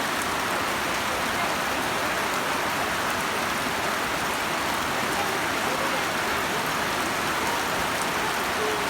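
Heavy rain falling steadily: a dense, even hiss with faint sharper drop ticks, unchanging throughout.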